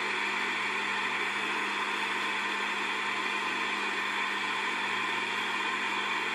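Steady mechanical hum of a workshop motor running, even and unchanging, with a low droning tone.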